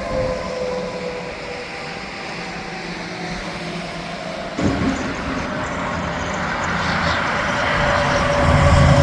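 Interstate traffic with trucks passing, with a long tone slowly falling in pitch throughout. A sudden surge comes a little past halfway, and a truck's low rumble builds to the loudest point near the end.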